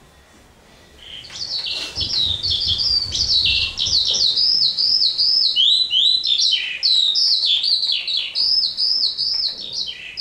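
Birds chirping in a fast, dense run of repeated down-slurred notes, starting about a second in.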